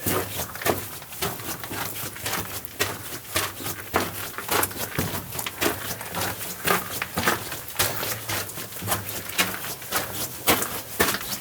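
Footsteps crunching over loose rock and rubble on a mine tunnel floor, an uneven run of sharp crunches several a second, with a faint steady low hum underneath.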